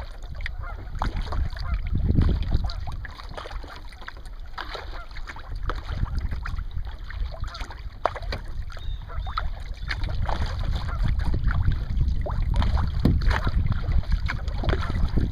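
Kayak paddle strokes dipping and splashing in the water, with wind rumbling on the microphone.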